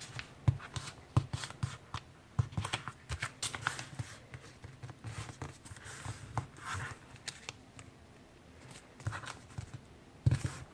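Sheet of letter-size paper being folded and creased by hand: irregular soft rustles and crisp little crackles as the paper is handled and the fold is pressed down.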